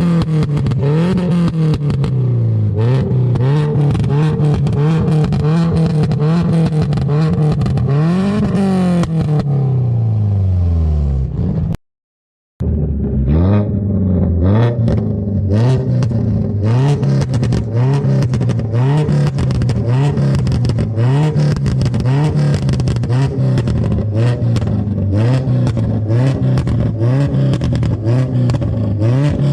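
Car engine revved hard again and again, its pitch climbing and falling about once a second, with many sharp crackles throughout. The sound cuts out abruptly for under a second about twelve seconds in, then the revving resumes in quicker blips.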